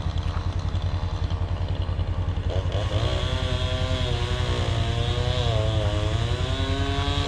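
Engine running steadily with a low, even pulsing. About three seconds in, a higher whine joins in and wavers up and down in pitch.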